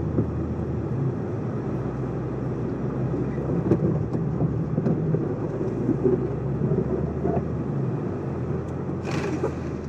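Off-road 4x4 engine running with a steady low drone, with a few small knocks, and a short rushing hiss about nine seconds in.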